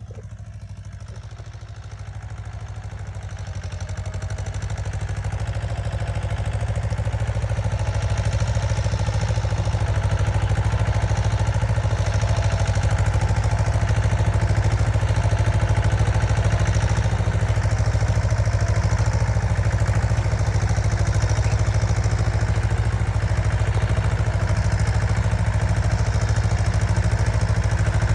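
Tractor diesel engines running hard, a steady low drone with a rattle, pulling under load against each other. It grows louder over the first eight seconds or so, then holds steady.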